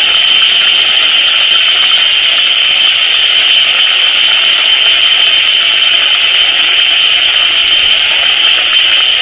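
Noctule bats calling at a tree roost: a dense, steady chatter of rapid ticks with a strong high-pitched band that holds unchanged throughout.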